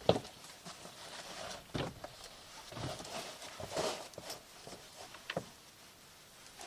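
Several soft knocks and thumps with rustling in between, the loudest right at the start.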